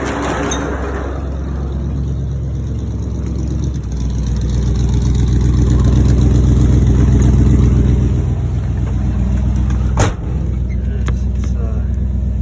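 1979 Dodge Li'l Red Express pickup's V8 with a Thermoquad four-barrel carburettor running as the truck pulls away. It gets louder for a few seconds in the middle as it accelerates, then eases off, with a sharp click about ten seconds in.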